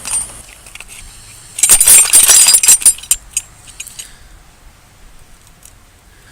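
Metal hand tools clinking and rattling: a loud, dense burst of clinks about a second and a half in, lasting just over a second, then a few scattered clicks.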